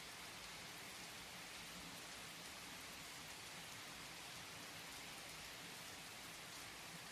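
Steady rain falling, a faint, even patter with no thunder heard.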